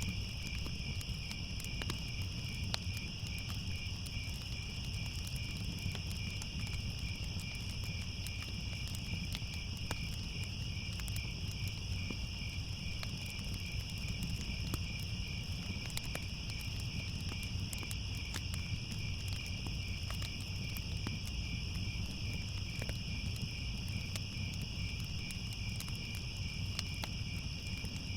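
Night crickets chirping continuously in two overlapping high trills, one pulsing rapidly, over a low steady rumble with scattered faint crackles from a fireplace.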